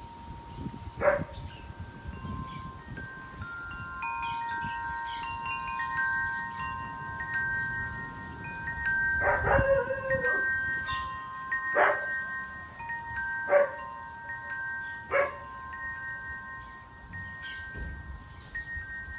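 Wind chimes ringing in the wind, several long tones overlapping and sounding at irregular moments. A dog barks five times, once near the start and four times in the second half, each bark louder than the chimes.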